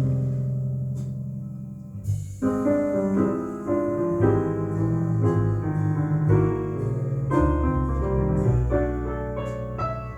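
Piano music with a bass line underneath, played back over Klipsch Forte III loudspeakers driven by a Rogue Audio Cronus Magnum III integrated amplifier. The piano turns to quick, busy chords about two and a half seconds in.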